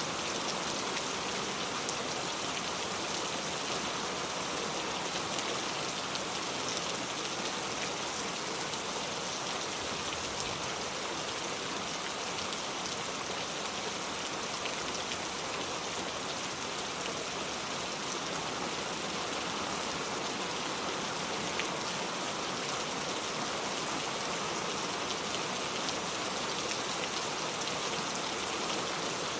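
Steady rain falling, a continuous even patter of drops with occasional distinct drop ticks.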